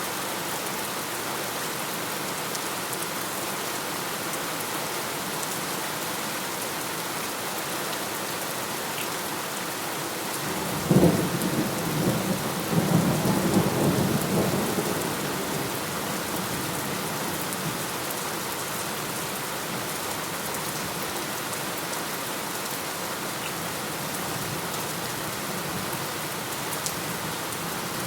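Steady rain falling, with a thunderclap about eleven seconds in: a sharp crack followed by a few seconds of rolling rumble that fades back into the rain.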